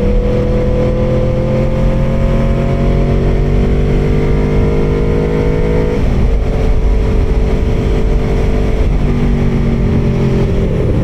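Aprilia Tuono V4R's V4 engine under way, its note climbing slowly for about six seconds, then dropping to a lower steady note after a gear change and easing off near the end. Heard from a microphone inside the rider's helmet.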